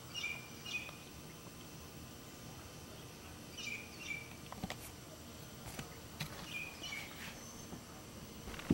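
Short, high bird chirps in three groups of two or three quick notes over a steady outdoor hiss, with a few sharp clicks, the loudest near the end.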